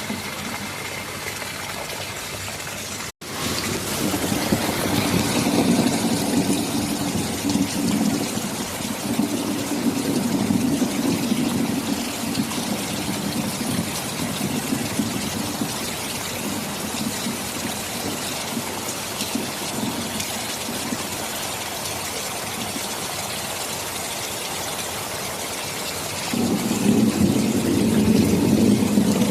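Steady heavy rain with low rolling thunder. The audio drops out for an instant about three seconds in, then the rumble swells for several seconds and returns louder near the end.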